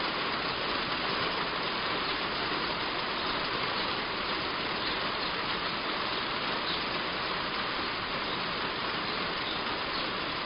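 Heavy rain falling steadily on a roof, an even hiss.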